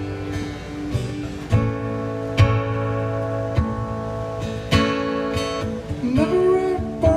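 Acoustic guitar strumming a song's intro, chords ringing between sharp strokes. Near the end a singing voice comes in over the guitar.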